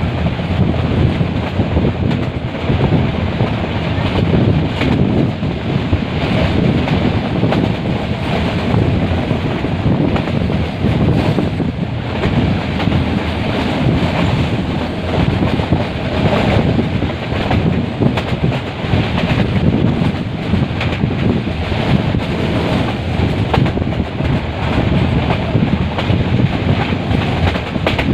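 Metre-gauge passenger train running, a steady rumble with irregular clatter of the wheels over the rails, and wind buffeting the microphone.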